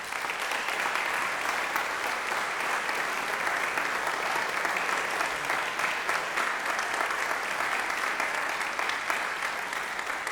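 Audience applauding steadily, a dense sustained ovation that starts suddenly and tapers slightly near the end.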